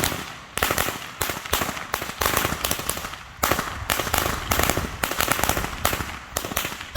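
A string of firecrackers going off: a rapid, irregular series of sharp pops and bangs that keeps up for several seconds and stops near the end.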